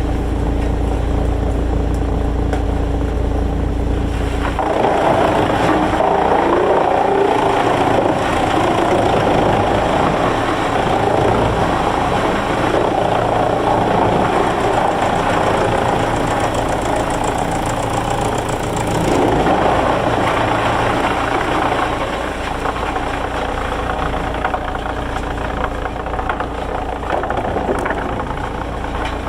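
Sawmill machinery running with a steady engine-like hum that turns louder and rougher about four seconds in, stays so until about twenty seconds in, then eases back.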